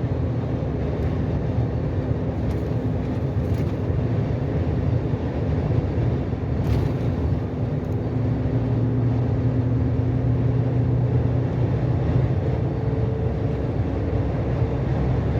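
Volvo heavy truck's diesel engine running steadily at cruise with a low drone, mixed with road noise. A faint higher tone joins the drone near the end.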